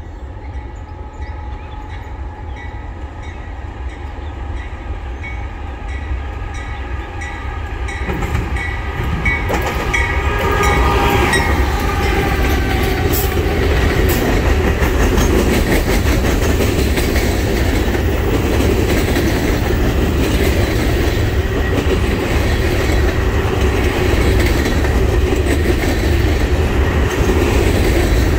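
Norfolk Southern freight train approaching and passing: a steady multi-pitched tone from the lead locomotives grows louder and drops in pitch as they go by about ten seconds in. After that comes a loud, steady rumble with the clickety-clack of wheels over rail joints as the loaded trash-container cars roll past.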